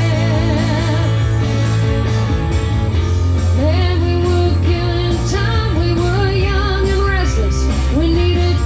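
Live band playing a country-rock song: a sustained lead melody with bends and vibrato over steady bass and drums.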